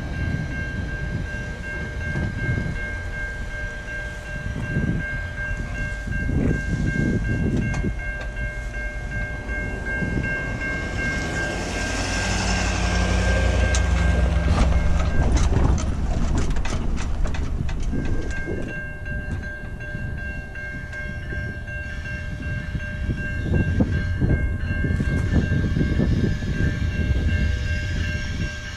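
GO Transit bilevel passenger train running past a level crossing, its wheels rumbling and clattering over the rails, while the crossing's warning bell rings steadily. The train noise swells to its loudest a little before the middle, with a low drone and a quick run of clacks, then eases off as the train clears the crossing.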